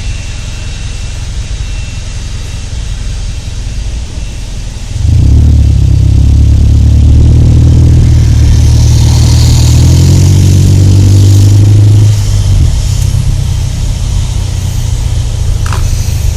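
Car engine and road rumble heard from inside the cabin; about five seconds in the engine is pushed harder for roughly seven seconds, its pitch climbing slightly as the car gathers speed, then eases back to a steady cruise.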